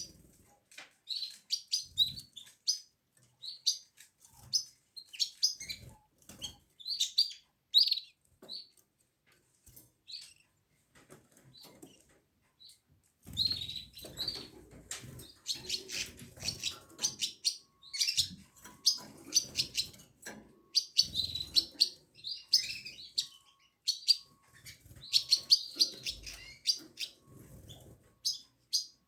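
Pet canary chirping and calling in short, repeated notes, sparse at first and then quick and busy from about halfway, with soft rustling underneath.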